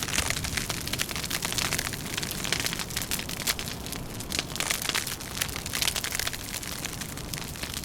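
Wood fire crackling, with dense rapid pops and snaps, over a steady low rumble of wind.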